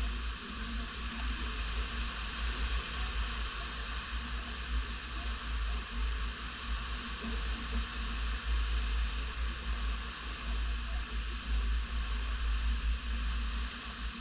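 Tropical-storm wind: a steady hiss, with gusts buffeting the microphone in a low, uneven rumble.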